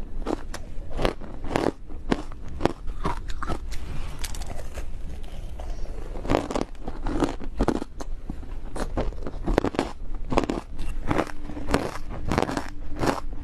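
Ice being bitten and chewed close to the microphone: a quick run of sharp crunches, easing into quieter crackling for a couple of seconds midway before the bites pick up again.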